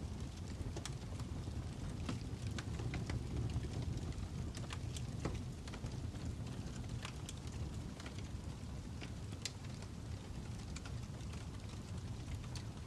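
Fire crackling: irregular sharp pops and snaps over a steady low rumble of burning.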